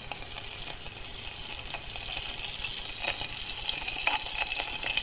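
Small fire with added matches burning at a desk, with a steady hiss and scattered crackles that grow louder and busier toward the end.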